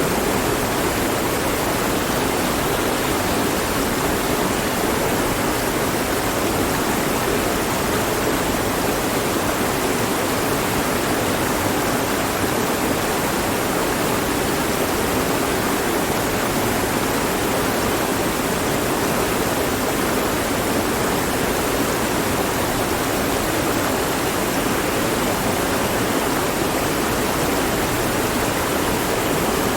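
Mountain stream flowing over rocks, a steady rushing of water.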